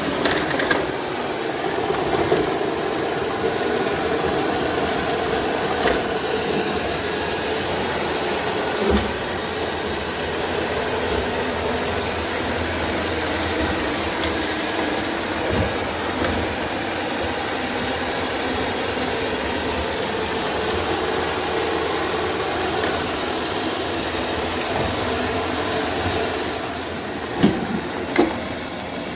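Robot vacuum running steadily with a loud motor and brush hum, with a few short knocks, two close together near the end.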